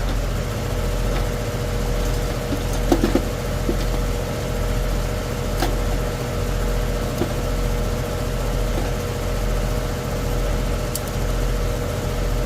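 Goodman AC condenser running on its fan motor alone, a steady hum with a low pulsing rumble: the compressor is not running. A few short clicks about three seconds in and again near six seconds.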